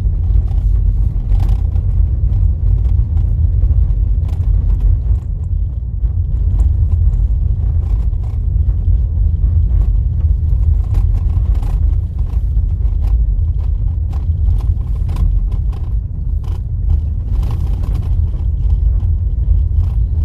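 A car driving on a dirt road, heard from inside: a steady low rumble of tyres and road, with scattered knocks and rattles from bumps and stones.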